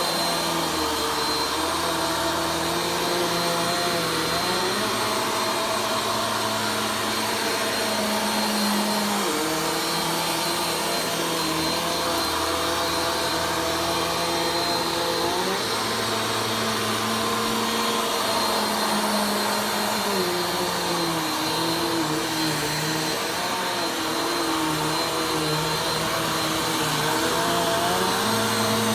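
Vacuum cleaner running continuously during slow vacuuming, its motor note shifting up and down every few seconds as it is pushed and pulled, over a thin steady high whine.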